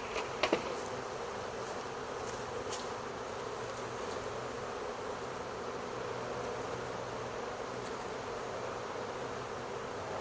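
Steady, dense buzzing of a honey bee swarm in the air, thousands of bees flying at once. A couple of brief knocks come about half a second in.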